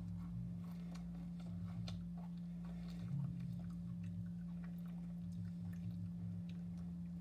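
Someone chewing a KitKat chocolate wafer bar: scattered small crunches and clicks over a steady low hum.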